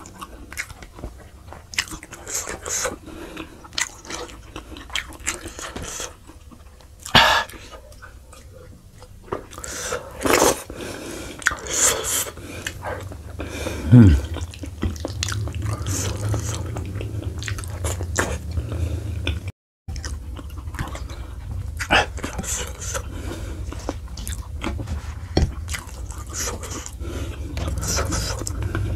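Close-miked wet chewing and lip smacks from a man eating sheep's head meat by hand, with several louder sucking slurps, one about halfway through falling in pitch.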